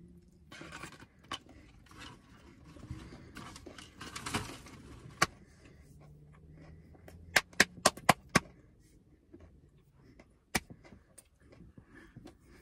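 Chewing and mouth sounds from a final bite of corn dog, with soft rustling. A quick run of about five sharp clicks comes a little past halfway, with single clicks before and after.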